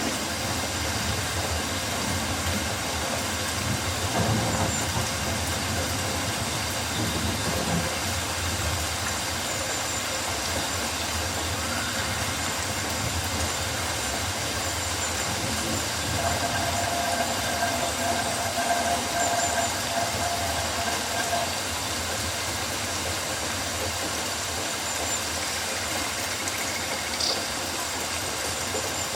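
Rainforest ambience: steady rain making an even wash of noise, with faint calls of birds or insects over it, including a short rising call and a longer held call midway.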